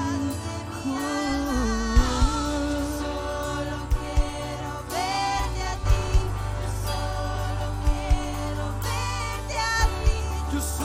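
Christian worship music: singing over sustained keyboard chords and bass, with a kick drum striking in pairs about every two seconds.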